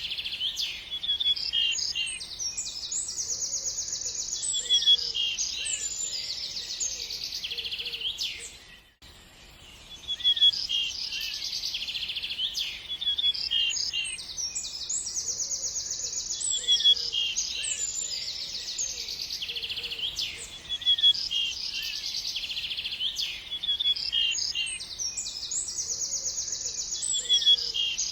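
Several songbirds chirping and singing with rapid trills and short high calls. The same stretch of birdsong repeats about every nine seconds, like a loop, and there is a brief quiet gap about nine seconds in.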